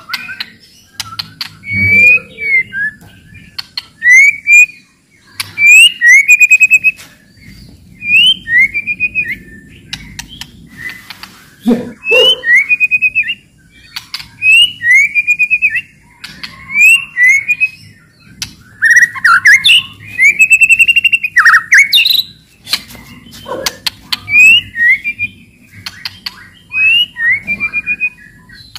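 White-rumped shama (murai batu) singing with hard chattering 'cetrekan' phrases. Short rattling phrases of many quick notes come every second or two, with sharp clicks between them.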